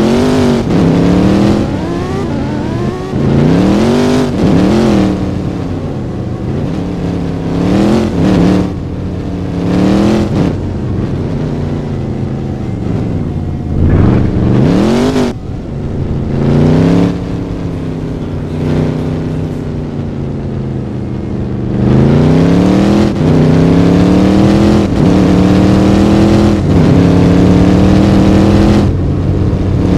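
A car engine revving loud and repeatedly, its pitch climbing and dropping every second or two. Near the end it climbs once more and holds at a steady high pitch.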